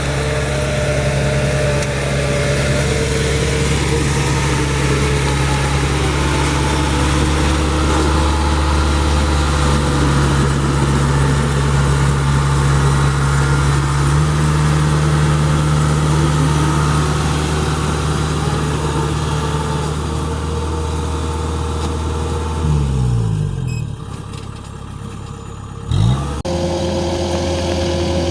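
Rice harvester's diesel engine running steadily; about 23 seconds in its revs fall away, it runs quieter for a couple of seconds, then revs sharply back up and keeps running.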